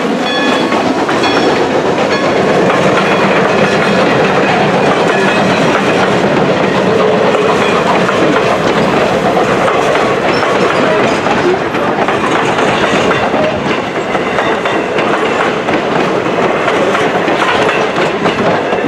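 Train hauled by Norfolk & Western steam locomotive 611 rolling past, steady and loud, its wheels clicking over the rail joints. The tail of a steam whistle fades out in the first couple of seconds.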